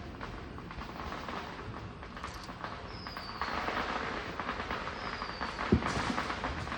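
Backyard fireworks: a crackling hiss that swells about halfway in, with two short falling whistles and a dull boom near the end.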